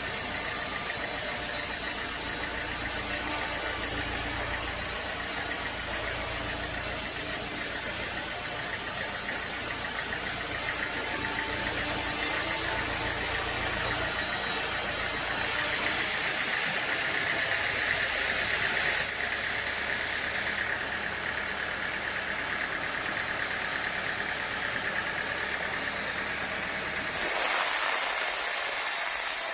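Sawmill machinery with an engine running steadily. The sound changes abruptly several times, about 14, 16, 19 and 27 seconds in.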